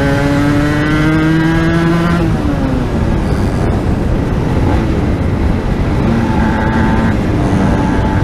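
Aprilia RS 125 two-stroke single-cylinder engine revving up under throttle for about two seconds, then its pitch falls away as the throttle closes. Heavy wind rush on the microphone fills the rest, with the engine note faintly rising again near the end.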